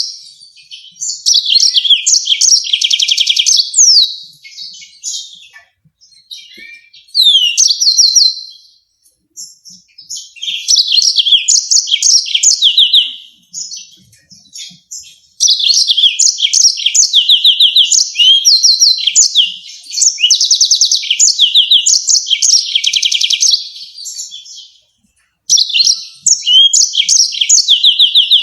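Yellow-fronted canary singing loudly in phrases of rapid repeated high notes and trills, each phrase lasting a few seconds with short pauses between them.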